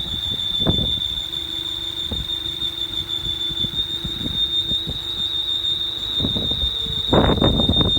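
A steady, high-pitched whine from under the hood of a 2011 Mini Cooper Clubman, holding one pitch like a smoke alarm. Dull low thumps and rumbles come and go over it, heaviest near the end.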